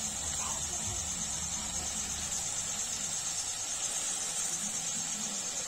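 Paneer tikka skewers frying in shallow oil in a pan: a steady, even sizzling hiss.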